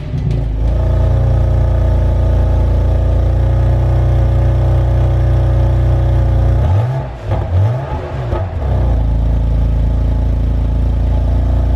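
Car engine idling steadily, then blipped twice, the revs rising and falling quickly, before settling back to idle.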